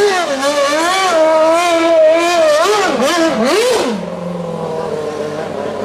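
Car engine revved up and down over and over in quick swings. About four seconds in it drops to a lower, steadier note.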